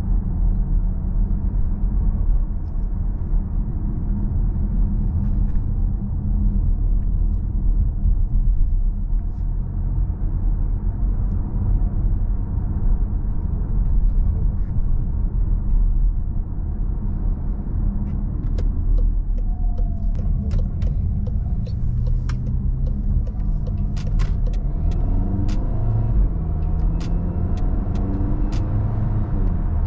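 Volkswagen Tiguan's 1.4-litre turbocharged four-cylinder petrol engine and road noise while driving, a steady low rumble. In the second half the engine note rises and falls with the car's speed, with a run of light ticks near the end.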